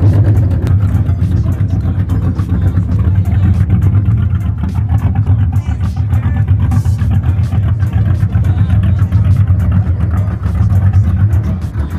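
1986 Chevrolet Camaro IROC-Z's V8 engine running at a steady idle, a loud, even low rumble from the exhaust.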